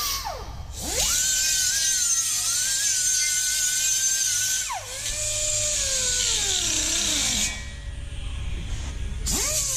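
A high-speed rotary power tool spins up to a steady high whine with a grinding hiss, runs about four seconds, then winds down. It starts again near the end.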